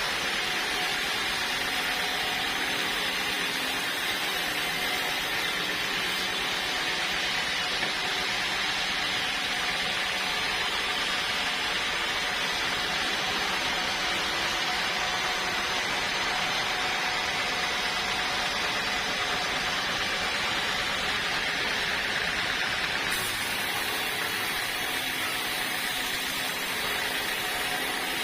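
Sawmill saw machine running steadily: an even, unchanging noise with a faint steady hum beneath it.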